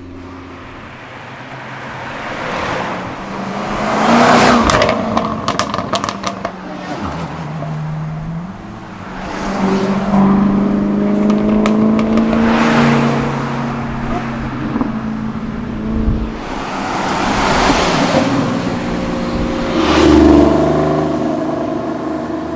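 Performance cars accelerating past one after another, their engines' pitch climbing and stepping through the gears as each one swells and fades. A quick string of sharp cracks follows the first pass.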